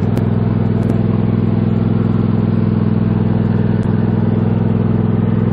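Mini tractor engine running steadily at idle, close by.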